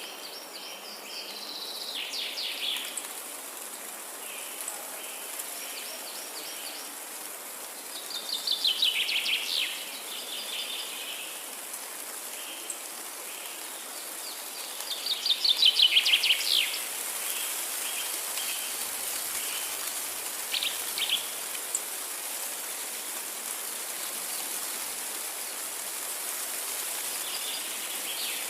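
Forest ambience: a songbird sings a quick trill of rapid notes three times, about seven seconds apart, with a few shorter faint calls later. A steady high insect hiss and a soft even background hiss run underneath.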